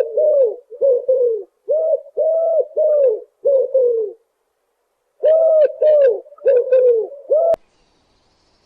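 A bird calling a quick series of short, low, even notes, about two a second. The notes come in two runs with a pause of about a second between them, and the call cuts off abruptly near the end.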